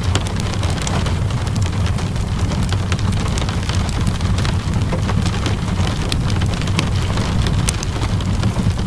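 Steady rainfall with a constant low rumble underneath, mixed with scattered sharp crackles and pops from a wood fire.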